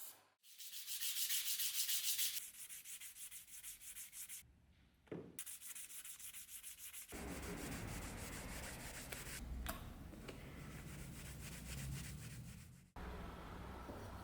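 Hand sanding or scrubbing: quick, even back-and-forth rubbing strokes of an abrasive, in short spells broken by sudden cuts. From about seven seconds in the rubbing turns steadier and duller.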